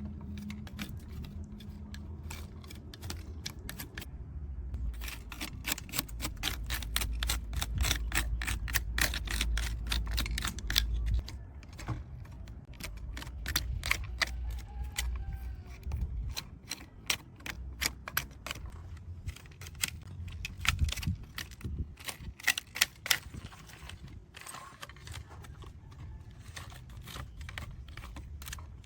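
Rapid, irregular small clicks and taps of hard parts of a die-cast model truck being handled and worked on, with a low rumble underneath; the clicking thins out near the end.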